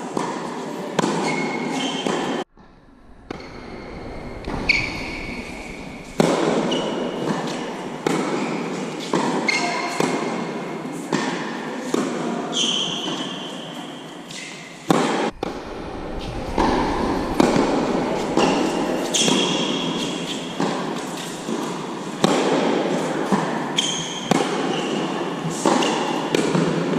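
Tennis rally: repeated sharp racket strikes and ball bounces on a court, with short high squeaks in between. The sound breaks off abruptly twice.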